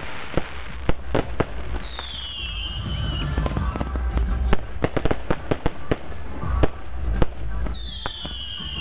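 Consumer fireworks cakes firing: a rapid string of sharp reports and pops over a low rumble. About two seconds in, and again near the end, a whistle glides downward in pitch.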